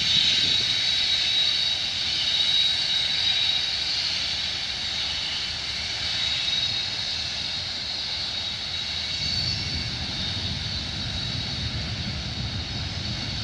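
Freight train cars rolling past on the rails: a steady rumble of wheels with a high-pitched whine over it, the low rumble growing louder in the last few seconds.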